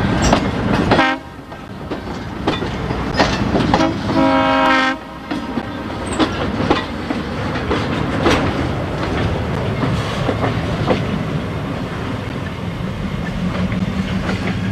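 A train rolling past, wheels clicking over the rail joints above a steady low rumble. Its horn sounds twice: a blast that cuts off about a second in, and another lasting about a second near the middle.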